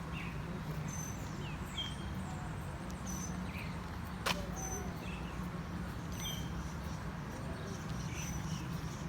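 Birds giving short high chirps and whistles now and then over a steady low rumble, with one sharp click about four seconds in.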